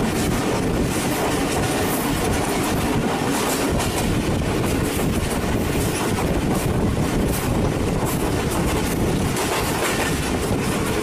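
Pakistan Railways railcar running along the line, heard from the carriage window: a steady rumble of wheels on the rails with a clickety-clack of the wheels passing over rail joints.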